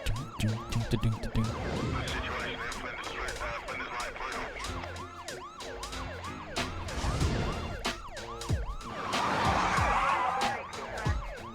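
Playback from a music video: a siren wailing up and down in quick repeated sweeps, over a beat with drums and bass. Near the end a denser noisy passage takes over from the sweeps.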